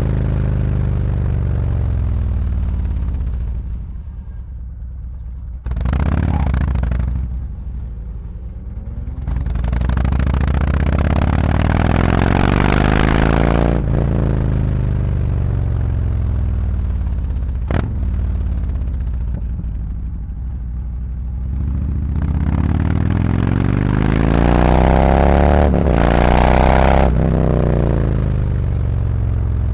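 Harley-Davidson Road Glide's V-twin engine through SuperTrapp 4-inch FatShots slip-on mufflers, riding in traffic. The exhaust note falls as the bike slows, then climbs as it pulls away, several times over, with brief breaks in the climb at the gear changes.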